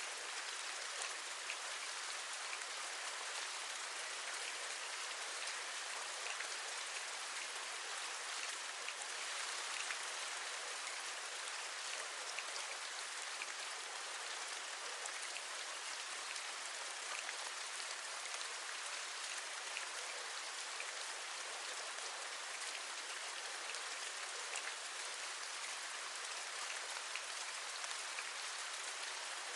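Steady rain: an even hiss of rainfall with many small drops tapping, as on a window.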